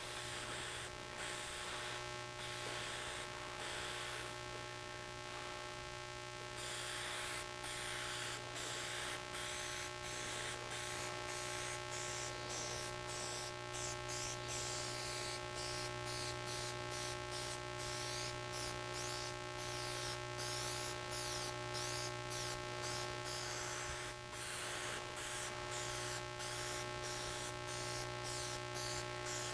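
Aerosol spray-paint can hissing as paint is sprayed, with frequent brief breaks, over a steady electrical hum.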